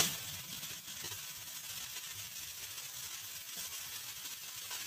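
Chopped onion, carrot, beans and potato frying in oil in a kadai: a quiet, steady sizzle.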